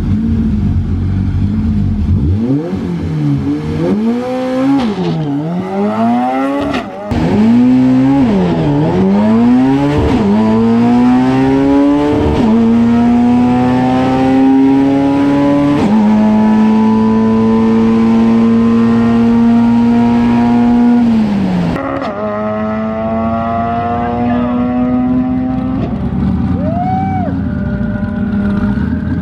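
Honda-swapped NASCAR pro truck's four-cylinder engine on a drag strip pass, driven flat out through a dog-box gearbox. About two seconds in it launches and revs up, and the pitch climbs and drops with each quick shift. The later gears pull longer and hold a steady high note. Then the revs fall sharply near the end, where the driver lifts off, and the engine runs on lower.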